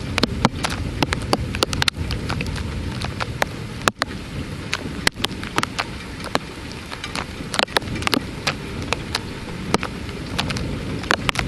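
Heavy rain during a thunderstorm, a steady downpour with many sharp drops hitting close by.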